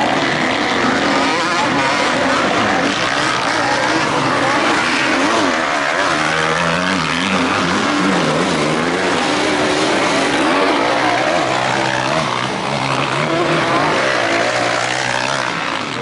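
Several motocross bikes' engines running hard and revving together, their pitch rising and falling with throttle and gear changes, most clearly in the middle of the stretch.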